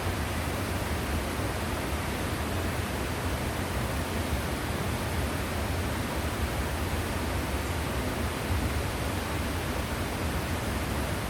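Waterfall: the steady rush of falling water, an even roar with a strong low rumble and no breaks or changes.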